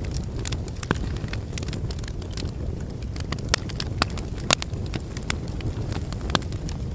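Logs burning in a fireplace: a steady low rumble of flames with irregular crackles and pops, the sharpest pop about four and a half seconds in.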